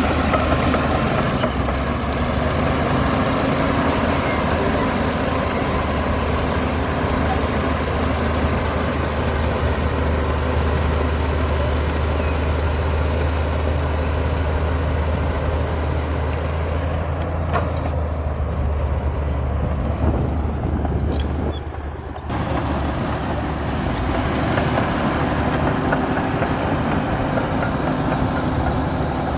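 Komatsu D60P bulldozer's diesel engine running steadily while it works, a low, continuous drone with mechanical clatter. About two-thirds of the way through the sound eases for a few seconds, then comes back abruptly at full strength.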